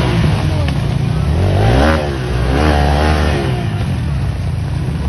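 Vehicle engine revving, its pitch rising and falling in two surges over a steady low rumble.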